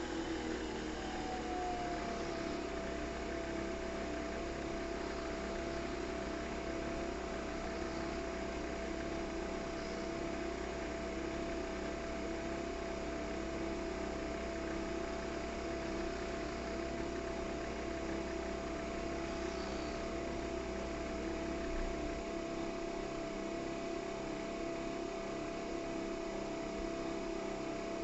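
A coffee machine's motor running steadily: a whir with a steady high whine that slides down in pitch and settles about a second in. A low hum underneath drops out near the end.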